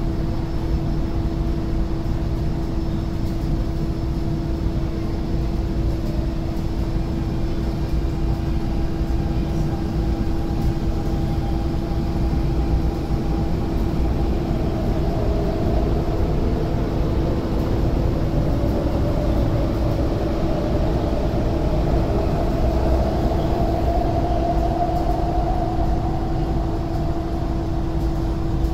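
Electric MTR train's traction motors whining, the pitch rising slowly from about halfway through as the train gathers speed, over a steady hum and low rumble.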